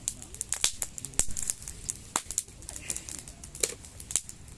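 Wood fire crackling, with sharp irregular pops and snaps several times a second.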